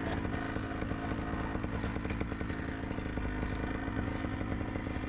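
Paramotor's single-cylinder two-stroke engine (Vittorazi Moster 185) running steadily at low power before takeoff, with a rapid even firing buzz.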